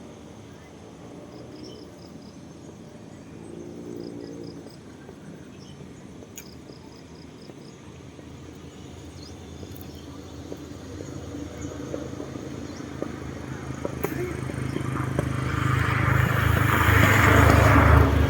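A motor vehicle's engine approaching: a faint low hum that grows steadily louder through the second half, ending in a loud rumble with rushing noise.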